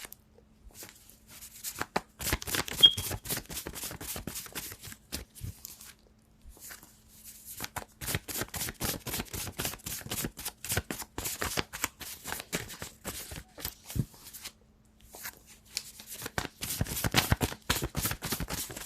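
A deck of cards being shuffled by hand in three stretches of rapid card flutter, with short pauses between them.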